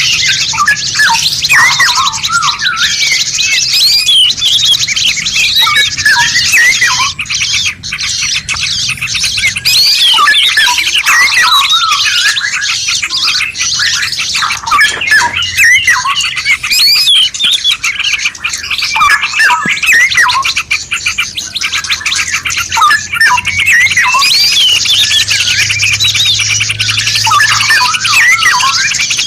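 Dense chorus of songbirds chirping and whistling over one another in quick, up-and-down phrases without a break, as in a masteran (song-tutor) recording for caged songbirds.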